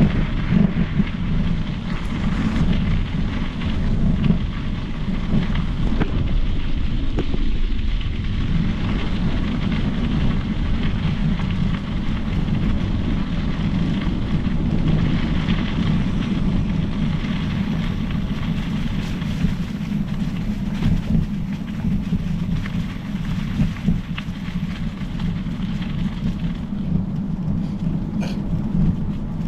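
Steady low rumble of wind buffeting the microphone while riding a mountain bike, with a fainter hiss above it.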